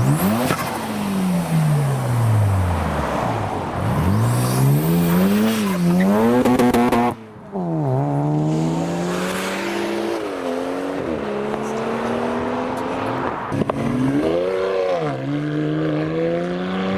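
Modified car engines revving hard as cars pull away, the revs climbing and dropping several times, with tyre noise over the first seven seconds. There is a brief drop in loudness about seven seconds in, after which another engine's revs climb and drop again.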